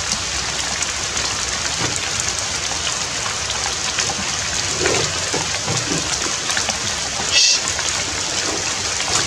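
Steady rainfall: an even hiss of rain dotted with many small drop ticks. About seven seconds in there is one short, high squeak.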